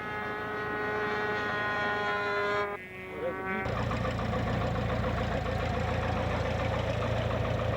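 A radio-controlled model airplane's engine running at a steady high buzz in flight, fading out about two and a half seconds in. About a second later a louder, rougher engine-like noise with a low hum starts abruptly and runs on.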